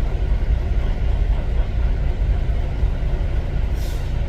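Semi-truck diesel engine idling with a steady low rumble under heavy rain. Near the end a short hiss of air, like an air brake releasing.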